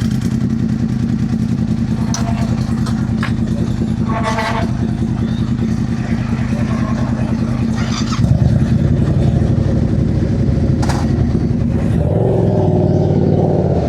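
Yamaha sportbike engines idling steadily; the engine note steps up louder and changes about eight seconds in.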